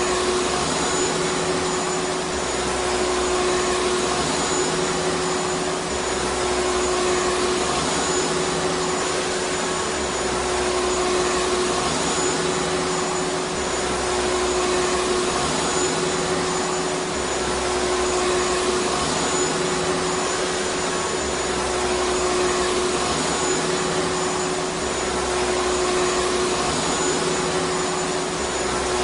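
Vacuum cleaner running steadily, a continuous rushing hiss of air with a steady motor whine, swelling slightly every few seconds.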